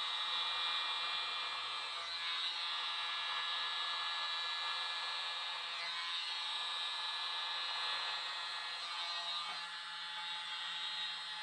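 Mini electric blower running steadily with a high whirring whine as it blows across wet acrylic paint.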